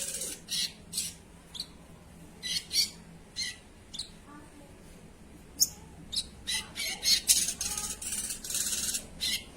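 Spiderhunter (sogok ontong) giving short, sharp, high-pitched chip calls: scattered single notes at first, then a quick, dense run of calls over the last few seconds.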